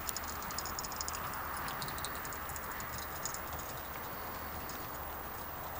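Hooves of a four-horse carriage team clip-clopping, heard as light clicks mostly in the first three seconds, over a steady rushing noise.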